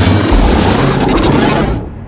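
A loud boom sound effect: a deep rumble with a noisy hiss on top that fades away near the end, over music.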